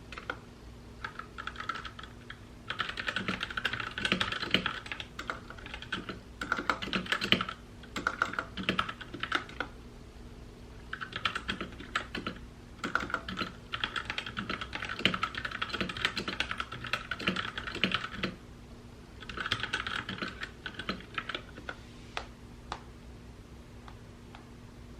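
Typing on a mechanical keyboard: fast runs of key clicks lasting a few seconds each, broken by short pauses, thinning to a few scattered keystrokes near the end.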